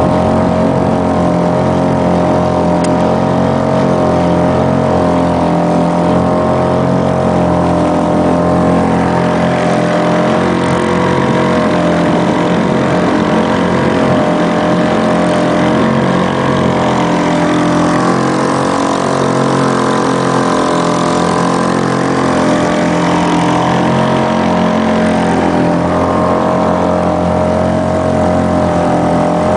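Boat motor running steadily under way, an even drone whose pitch wavers slightly.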